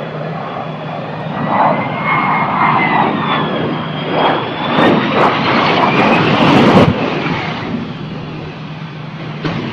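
Jet aircraft engine noise with a high whine that bends up and down in pitch, growing louder to a peak about seven seconds in and then dropping off suddenly.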